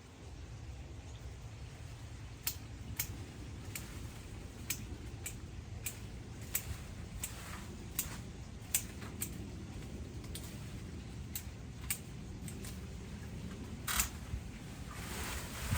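Hand pruning shears snipping in a steady rhythm, a crisp click every half second or so, over a low steady rumble; a louder cluster of snips about fourteen seconds in.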